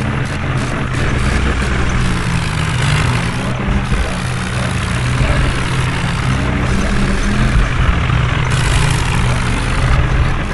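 Heavy diesel engine running steadily at a constant speed, with no clear revving or pauses.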